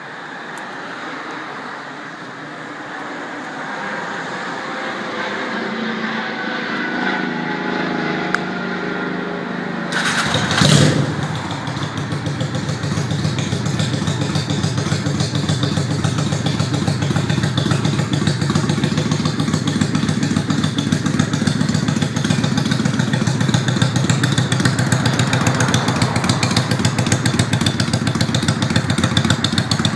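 Customised Honda Shadow V-twin motorcycle with an aftermarket muffler. A rising mechanical sound is followed, about a third of the way in, by a loud burst as the engine fires, and then the engine idles with a steady, even pulsing beat.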